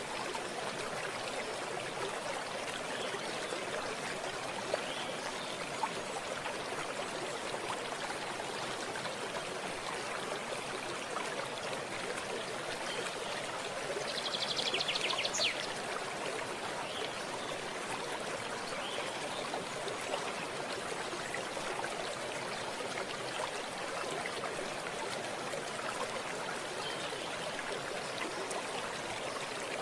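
Running water flowing steadily. About halfway through, a short, rapid, high-pitched trill sounds over it for a second or two.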